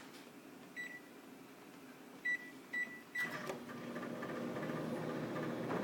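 Microwave oven keypad beeping four times as the time is entered, then the oven starting up, running with a steady hum from about three seconds in.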